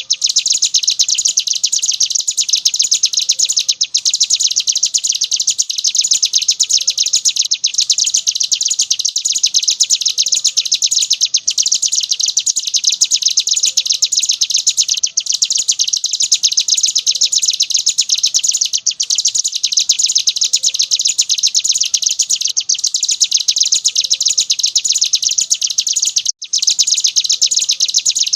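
Ciblek gunung (mountain prinia) singing a continuous, very rapid high-pitched trill in the 'ngebren' style, like a drill. It breaks off only briefly about every four seconds.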